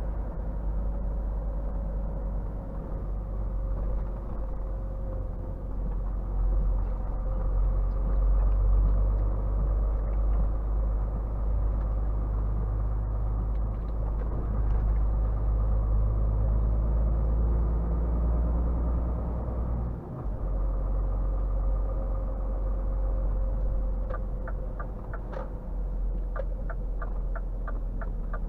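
Scania R450 truck's 13-litre inline-six diesel heard from inside the cab as a steady low drone under way, breaking off briefly once about two-thirds of the way through. Near the end, a regular ticking starts at roughly three clicks a second, like the cab's turn indicator.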